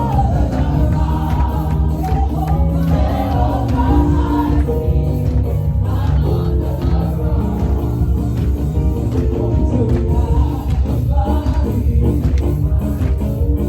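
Gospel music with a choir singing, at a steady loud level.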